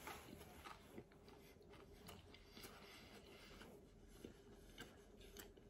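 Faint chewing of a mouthful of pizza, with soft, irregular clicks of the mouth and jaw.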